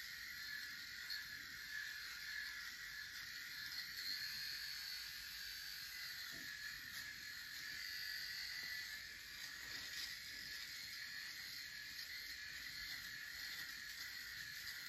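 Electric shaver buzzing steadily as a man shaves.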